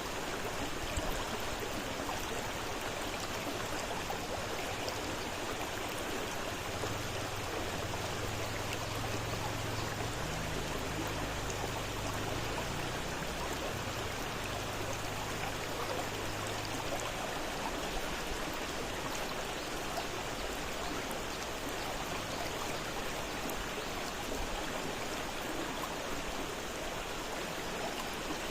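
Fast-flowing river: a steady, even rush of running water.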